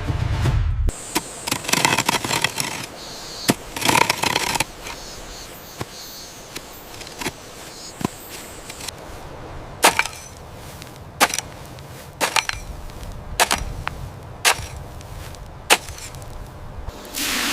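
Wood being chopped and broken: irregular sharp knocks and cracks, with brief rustling between them.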